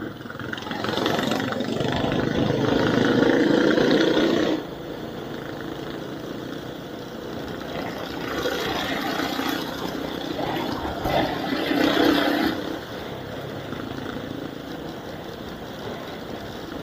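Vehicle engine and road noise picked up by an action camera's built-in mic while driving. The sound swells twice, as if under acceleration, and each time drops off suddenly.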